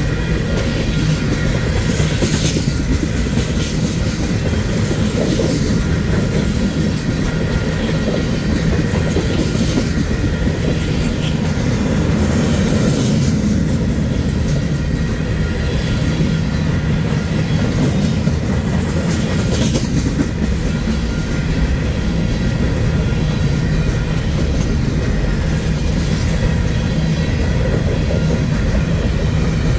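Union Pacific freight train rolling past, a steady loud rumble of wagons with wheels clacking over the rail joints and a few brief wheel squeals.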